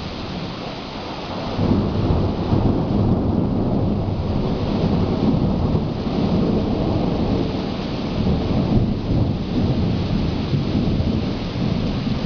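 Thunderstorm: rain falling steadily, with a long, low rumble of thunder that swells about a second and a half in and rolls on through most of the stretch.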